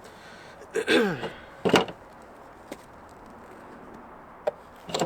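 Handling noise: a sharp knock just under two seconds in, then a few light clicks, with a brief murmured voice sound about a second in.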